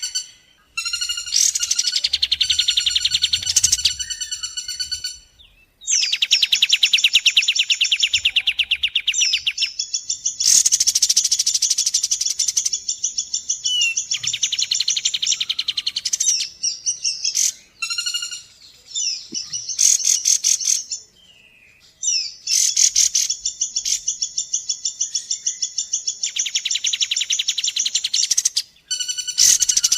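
Rapid, rattling trilled calls of a kapas tembak and a common flameback woodpecker (pelatuk bawang). They come in loud runs of a few seconds each, with short pauses between.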